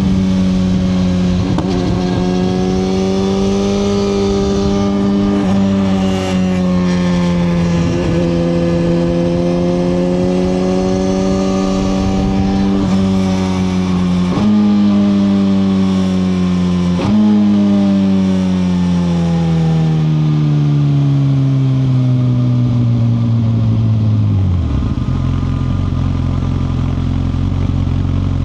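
2021 Suzuki GSX-R1000R inline-four engine on the move, its note easing up and down. The pitch jumps up twice as the rider downshifts, then falls steadily as the bike slows. About 25 seconds in, the engine drops to a steady idle.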